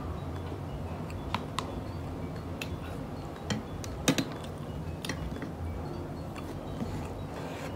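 Close-up eating sounds: chewing, with scattered sharp clicks and light taps as fried street food is picked from the plate by hand, over a steady low hum.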